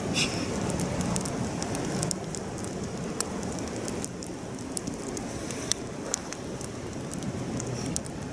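Wood campfire burning: a steady hiss with sharp crackles and pops scattered through it, the loudest pop just after the start.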